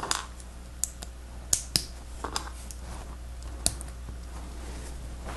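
Lego Technic plastic pieces clicking against each other as they are handled and pressed together, a handful of sharp separate clicks.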